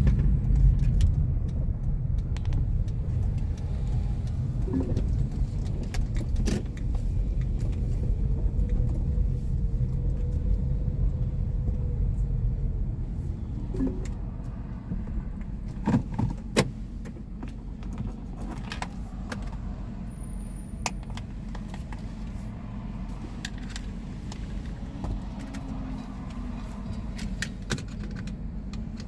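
Car cabin noise while driving: a steady low road and engine rumble with scattered light rattles and clicks, a few sharp clicks close together about sixteen seconds in. The rumble eases off past the middle, as the car slows.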